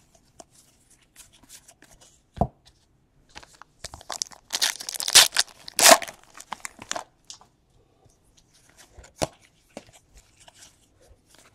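Foil wrapper of a trading-card pack torn open and crinkled, a cluster of rips about halfway through, with a few sharp clicks and taps from handling the pack and cards before and after.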